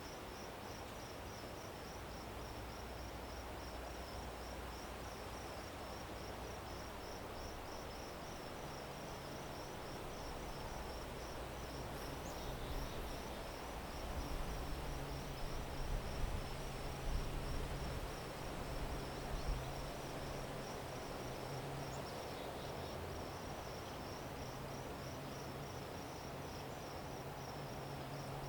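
Cricket chirping in a steady train of evenly spaced high-pitched pulses over a constant background hiss. A low hum comes in about a third of the way through, with some louder low rumbling around the middle.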